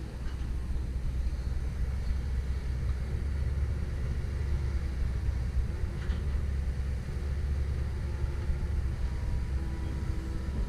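Komatsu PC170LC-10 excavator's diesel engine running steadily: a deep, even rumble.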